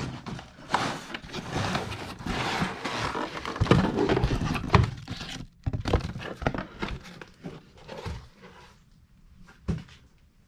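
A parcel being opened by hand: irregular rustling, scraping and tearing of the packaging with sharp clicks and knocks, busiest for the first six seconds, then a few scattered knocks.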